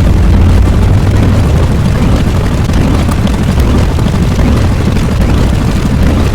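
A loud, continuous low rumble, an explosion-like sound effect, heaviest in the bass and holding steady throughout.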